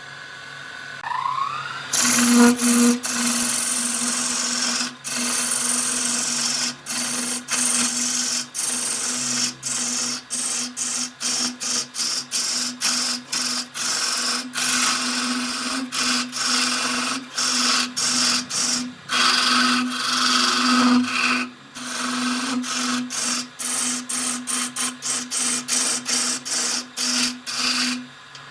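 Wood lathe running with a tool scraping against the spinning wood over the motor's steady hum, the scraping noise breaking off briefly many times. A short rising whine comes near the start, before the scraping begins.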